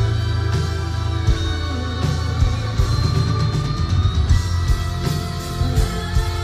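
A symphonic metal band playing live, recorded from the audience: an instrumental passage of guitars over a heavy bass line and steady drum hits, with no singing.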